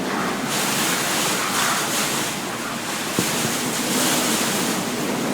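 Severe thunderstorm wind blowing hard and gusting, buffeting the microphone. A single sharp knock about three seconds in.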